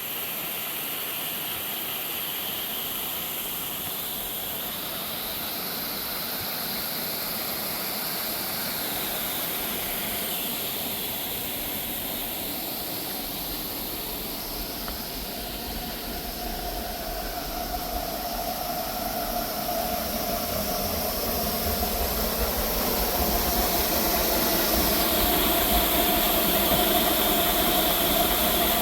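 A steady mechanical hum with hiss, like a running engine, its pitch shifting slowly and a low rumble growing louder through the second half.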